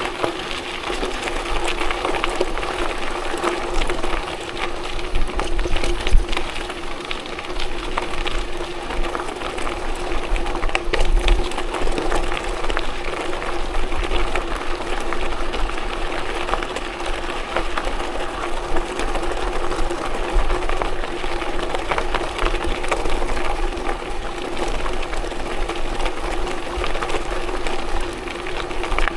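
A vehicle travelling steadily along a gravel forest road: a constant mechanical drone with rattling and crunching from the rough surface, and wind rumbling on the microphone.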